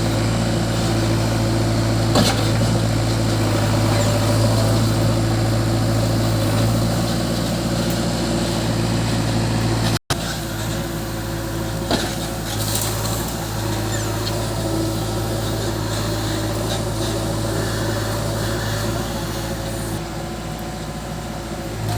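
Heavy diesel machinery engine running steadily, with a couple of short knocks. The sound breaks off for an instant about ten seconds in, then the engine carries on a little quieter.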